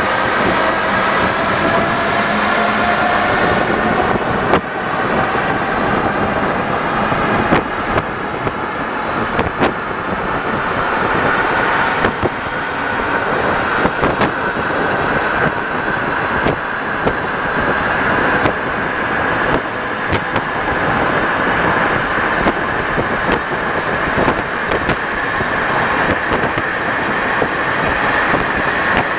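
Santiago Metro NS-74 rubber-tyred metro train running. The traction motor whine rises in pitch through the first dozen seconds as the train accelerates, then holds as a steady whine. Short clicks and knocks from the track run throughout.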